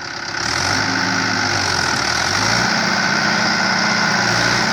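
Tractor engine revving up about half a second in and then running steadily at high speed, its note stepping up a little past halfway.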